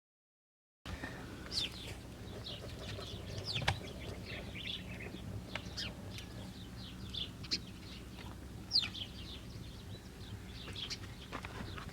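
Small birds chirping: many short, quick calls, some falling in pitch, over a faint low hum. The sound starts abruptly about a second in, after dead silence.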